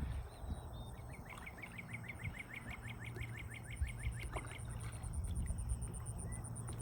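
A bird trills a quick run of falling chirps, about eight a second, for roughly three seconds. After that, a very high insect-like pulsing, about six beats a second, carries on to the end over a low outdoor rumble.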